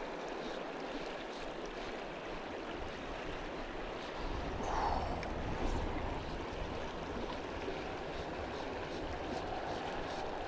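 River water rushing steadily, with a brief louder sound about four and a half seconds in.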